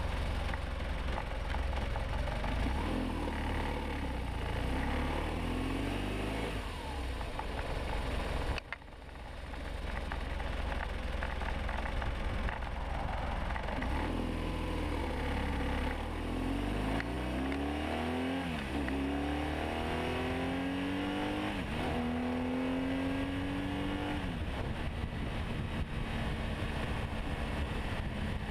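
2009 BMW R1200RT's flat-twin boxer engine pulling the motorcycle along, its note climbing and dropping back several times as it shifts up through the gears. There is a brief drop-out about nine seconds in.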